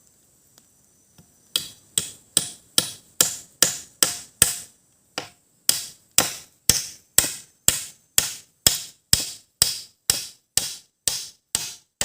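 A parang (machete) striking wood in steady repeated blows, about two a second, with one short pause about a third of the way through.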